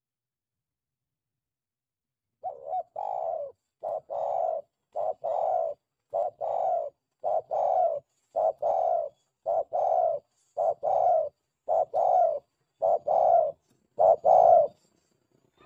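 Spotted dove (tekukur) cooing: a steady run of about eleven two-part coos, each a short note followed by a longer one, about one a second, starting a couple of seconds in.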